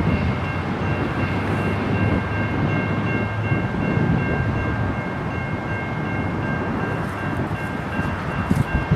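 Freight train with diesel locomotives moving past, a steady low rumble. Over it a high tone of several notes is held unbroken throughout.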